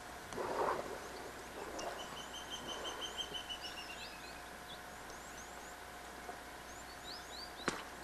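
Wild birds chirping repeatedly, with one bird giving a fast, even trill from about two seconds in for a couple of seconds. A short rushing noise about half a second in is the loudest sound, with softer ones after it, and a single sharp click comes near the end.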